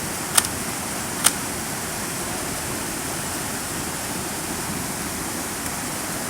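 Fast-running river rushing steadily. Two short sharp clicks sound near the start, a little under a second apart.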